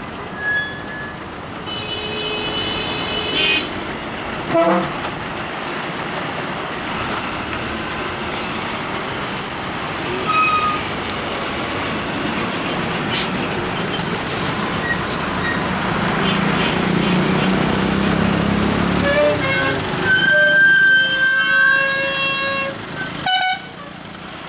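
Heavy vehicles running through a hairpin bend, with horns honking: a short horn about two seconds in and a longer, louder horn blast near the end, and a heavier engine rumble shortly before it.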